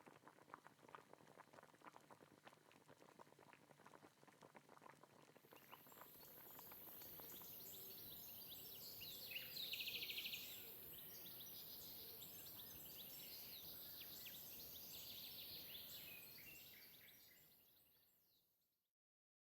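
Faint outdoor ambience with small birds chirping, busiest about ten seconds in, over a steady high hiss. Faint crackling ticks come before the birds, and the sound fades out near the end.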